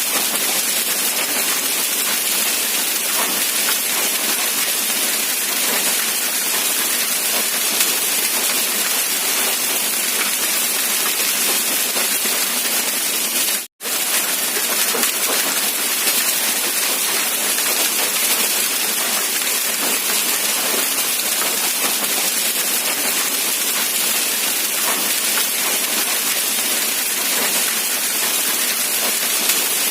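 Steady rain falling, an even, dense hiss of raindrops. About halfway through, the sound cuts out completely for a split second, then resumes unchanged.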